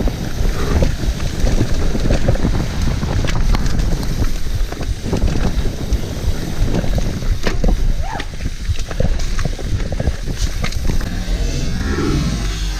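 Mountain bike ridden over a rough, muddy trail: wind buffeting the camera microphone, with tyre rumble and rattling knocks from the bike. Music comes in near the end.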